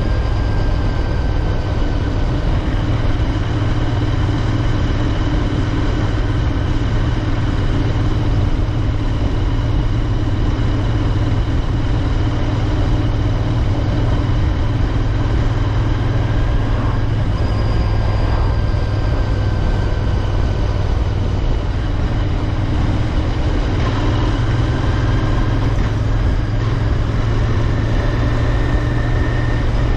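Royal Enfield Interceptor 650's parallel-twin engine running steadily while riding at an even speed, a strong low hum with faint higher tones drifting slightly in pitch, over a haze of wind and road noise.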